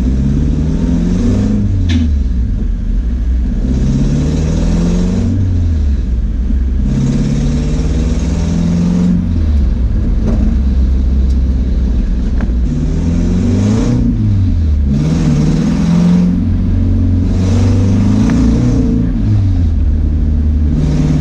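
Nissan 240SX's freshly swapped KA24DE 2.4-litre four-cylinder engine, heard from inside the cabin, pulling through the gears of a manual gearbox. Its pitch climbs and then drops at each shift, about six times.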